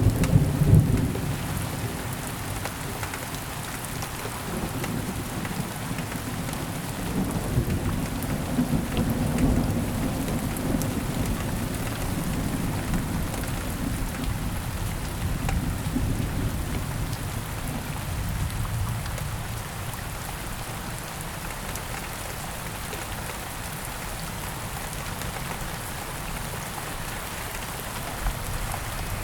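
Steady heavy rainfall with scattered close drops, under a low rolling thunder rumble that is loudest at the start and dies away about two-thirds of the way through.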